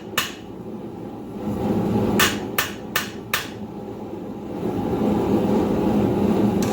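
Hand hammer striking hot steel on an anvil: one blow just after the start, then four quick blows about a third of a second apart around two seconds in. A steady low rushing noise builds up underneath and grows louder in the second half.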